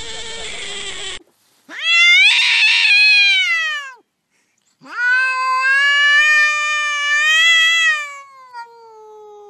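A cat yowling: two long, drawn-out yowls, the first about two seconds long and rising then falling, the second about four seconds long and tailing off at the end. Before them, a steady held call cuts off abruptly about a second in.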